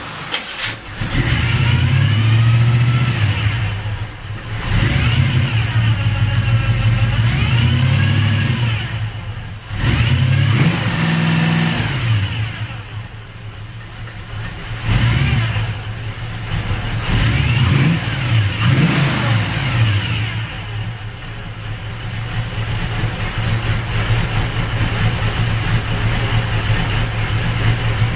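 1933 Dodge truck engine, freshly tuned up, revved up and down several times and then settling to a steady idle for the last several seconds.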